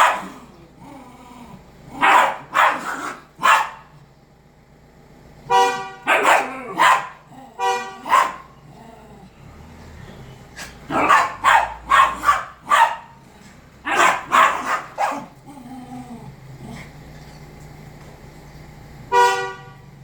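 Dogs barking in repeated bursts, with a few short, high-pitched squeals among the barks.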